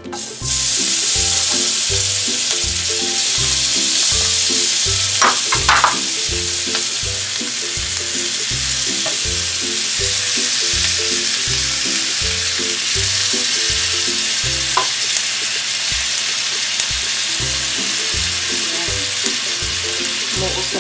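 Tofu and vegetables sizzling as they are spooned and then poured onto a hot, buttered sizzling plate. The loud hiss starts suddenly as the first pieces land and then holds steady, with a few spatula clicks about five to six seconds in.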